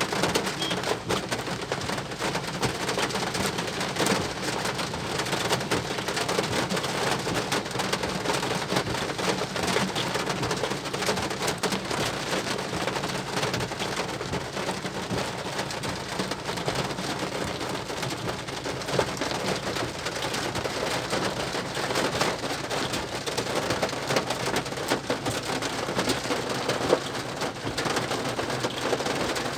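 Heavy rain falling steadily, a dense hiss of countless drops hitting a surface.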